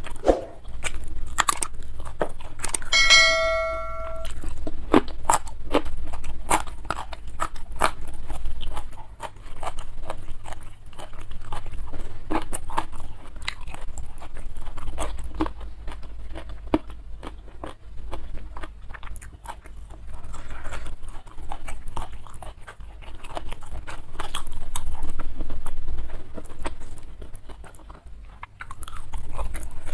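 A person chewing and crunching food close to the microphone, in an irregular stream of crisp crunches and clicks. About three seconds in there is a short ringing tone lasting about a second.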